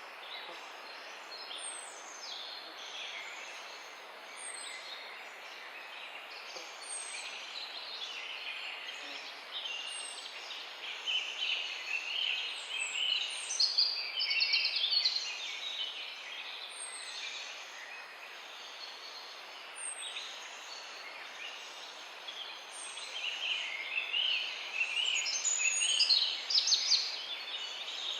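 A chorus of several songbirds singing at once, a continuous mix of chirps, trills and warbles over a soft background hiss. The singing swells louder about halfway through and again near the end. A thin, high, short chirp repeats every two to three seconds.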